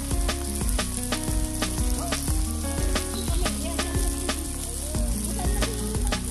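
Hot dogs sizzling on foil over a charcoal grill: a steady hiss with frequent crackling pops.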